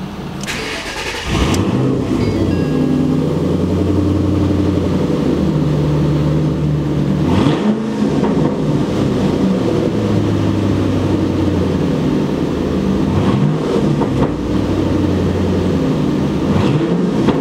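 2010 Roush Mustang's engine starting about a second and a half in, then running with its exhaust note steady between several quick revs that rise and fall.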